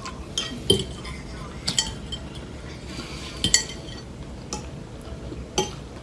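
Cutlery clinking against a plate while eating, a handful of short sharp clinks at irregular intervals.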